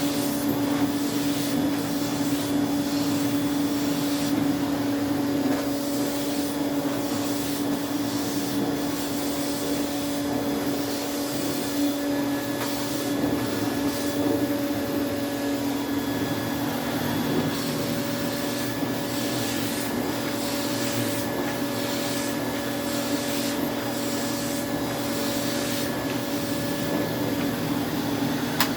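AEG Vampyr 406 vacuum cleaner running steadily, its 1000 W motor giving a constant whine over the rush of air, with irregular scratchy rubbing noises over the top. The owner says it could sound a lot better.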